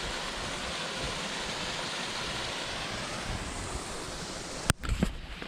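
Waterfall rushing: a steady, even roar of falling water. Near the end it breaks off with a sharp click, followed by a few knocks.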